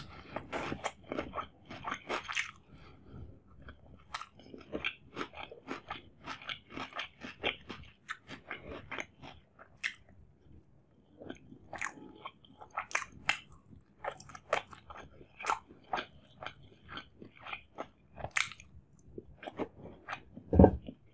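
Close-miked eating: crisp crunching bites of a cucumber slice in the first couple of seconds, then wet chewing and smacking of chicken biryani eaten by hand. A single loud dull thump comes near the end.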